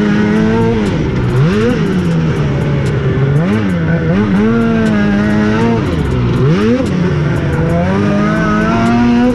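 Snowmobile engine running hard at high, steady revs, its pitch dropping sharply and climbing straight back about five times as the throttle is let off and opened again.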